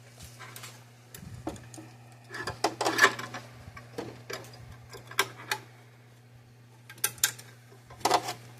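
Irregular plastic clicks and ticks of a nylon cable tie being worked through its lock and cinched down, with small handling knocks, in two busier spells: about two and a half seconds in and near the end. A steady low hum runs underneath.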